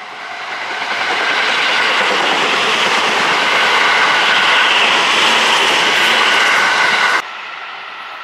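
E653-1000 series electric multiple unit passing close at speed: its running noise on the rails builds over the first second and a half to a steady loud rush. About seven seconds in it drops suddenly to a quieter level as the train is heard farther away.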